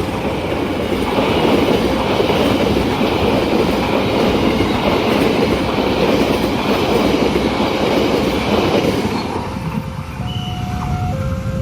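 A long passenger train running past close by, its wheels clattering over the rail joints, the noise easing off near the end. Near the end a steady two-note tone starts, alternating between a lower and a higher note.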